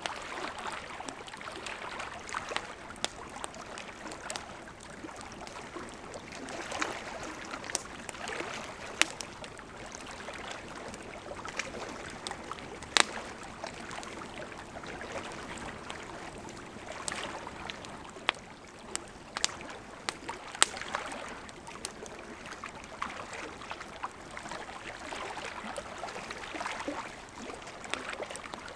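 Campfire of burning wood with a steady soft hiss and frequent sharp crackles and pops. A few louder pops stand out, the strongest about halfway through.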